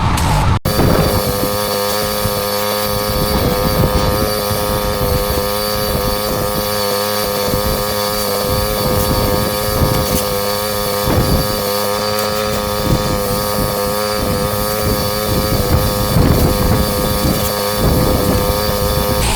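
Pressure washer running steadily, its engine and pump giving an even pitched drone over the hiss of the water spray on block paving. It cuts out for an instant about half a second in.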